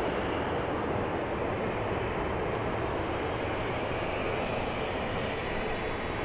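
Jet airliner engines running, a steady broad roar with deep rumble underneath that slowly fades.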